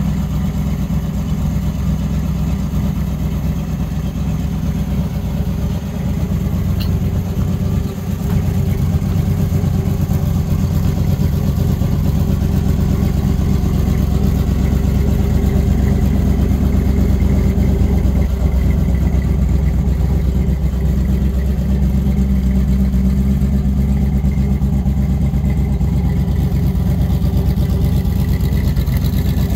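1962 Corvette's fuel-injected 327 V8 idling steadily.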